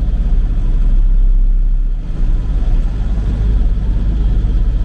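Tractor engine running steadily while driving, a deep even rumble that dips briefly about two seconds in.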